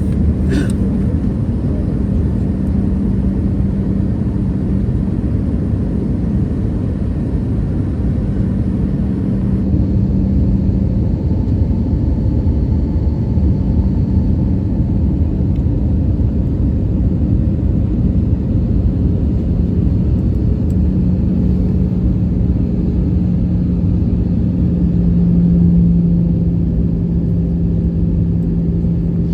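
Steady airliner cabin noise inside an Airbus A320 in flight: a low rumble of airflow and its CFM56 turbofan engines under a steady hum. The hum grows stronger and drops slightly in pitch about 21 seconds in, swelling briefly near the end.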